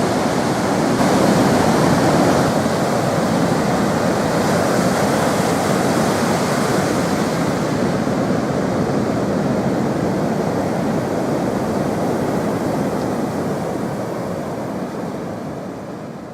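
Steady rushing wind noise on the microphone while cycling, fading over the last few seconds.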